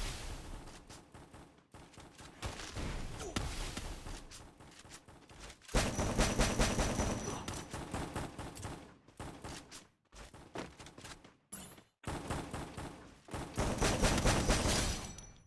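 Rapid gunfire in dense bursts of many shots a second, breaking off abruptly several times.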